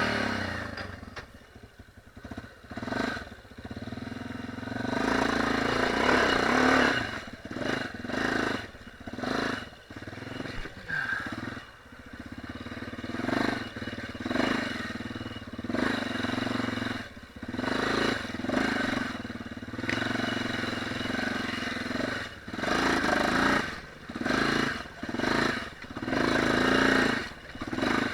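Dirt bike engine running on a trail ride, the throttle opened and closed in repeated bursts so that the sound swells and falls every second or two.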